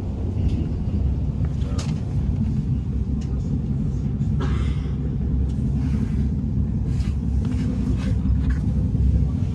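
Steady low rumble of a Belgian NMBS/SNCB passenger train running, heard from inside the carriage, with a few faint clicks over it.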